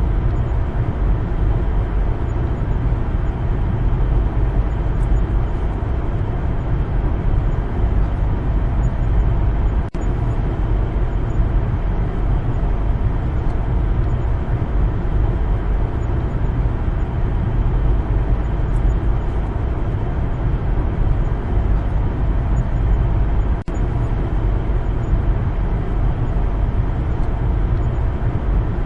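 Steady low rumble of a car driving: engine and tyre noise on the road, even throughout, with two brief dips in level.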